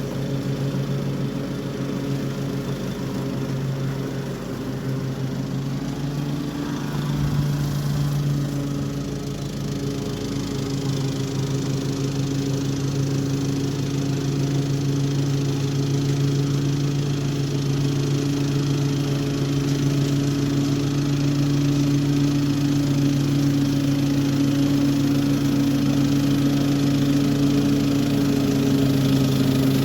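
Toro HDX 30-inch self-propelled walk-behind mower, fitted with a mulching kit, running steadily while cutting grass. It grows slightly louder toward the end.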